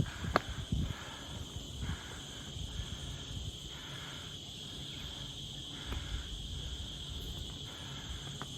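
Insects, crickets or cicadas, droning in a steady high buzz, with a fainter chirping that pulses about once a second.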